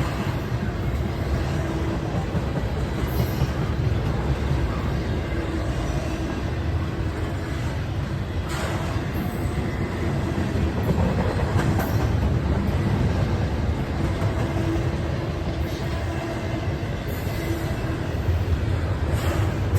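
A train rolling past: a steady rumble of wheels on rail, with a few sharp clicks from the wheels along the way.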